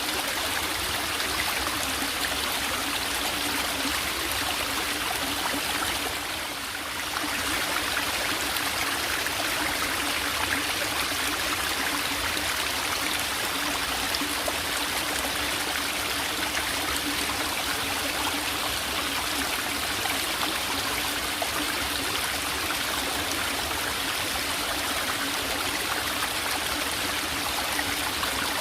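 A small forest mountain stream trickling and gurgling steadily over rocks, easing off for a moment about six seconds in.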